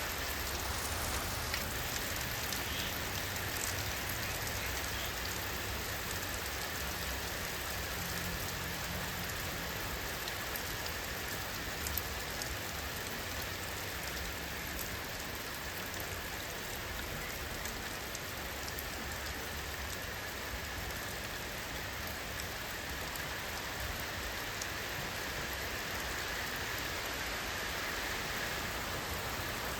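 Steady, even rainfall: a dense patter of raindrops falling on a surface.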